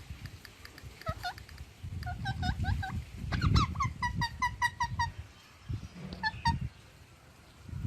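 A parrot making short, high chirping calls, with a quick run of repeated chirps, about six a second, in the middle. Low rustling and knocking sounds lie underneath.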